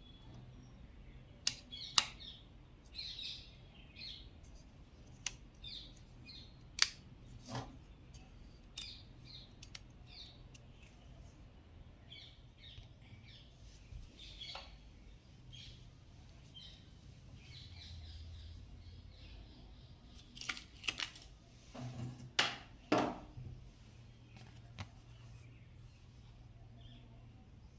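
Scattered short bird chirps and several sharp clicks over a faint steady low hum.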